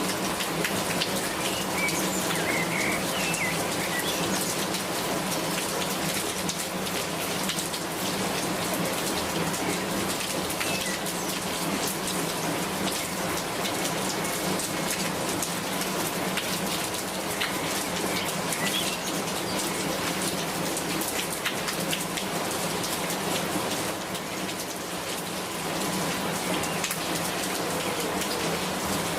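Steady rain falling, a dense even hiss peppered with the ticks of individual drops hitting a surface.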